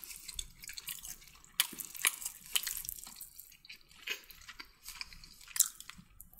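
Someone chewing a mouthful of chicken kottu, with many short, irregular wet clicks and smacks of the mouth.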